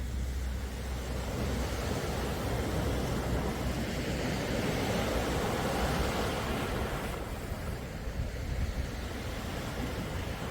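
Calm sea waves washing ashore, one swell building over a few seconds and easing off, over a low wind rumble on the microphone.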